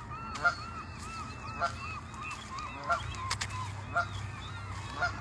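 Geese and their goslings calling: a steady run of quick, short, arched peeping notes, with a somewhat louder call about once a second.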